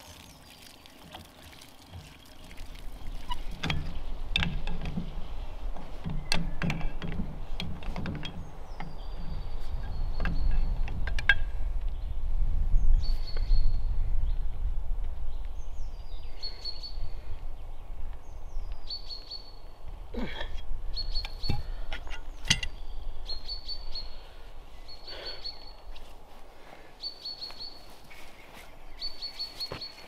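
A bird calling one short, high, downward-sliding note over and over, about every one to two seconds, from about nine seconds in. Under it a low rumble, loudest in the first two-thirds, and scattered metallic clinks of tools being handled.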